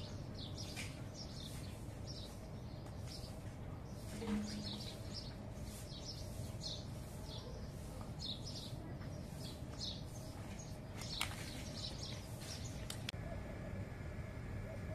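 Small birds chirping in short, high, repeated calls, one or two a second, over a steady low background; a single sharp click sounds late on, and the chirping stops near the end.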